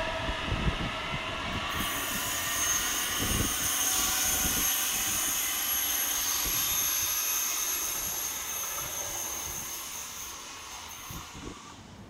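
Skåne X31K electric multiple unit running past on the rails, its wheels rumbling over the track. The rumble dies away over the first five seconds or so, and the train fades into the distance. A high, thin, steady whine starts about two seconds in and cuts off near the end.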